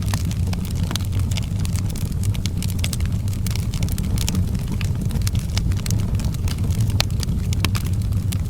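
Wood fire burning in an outdoor fireplace, with a steady low rumble under frequent sharp, irregular crackles and pops.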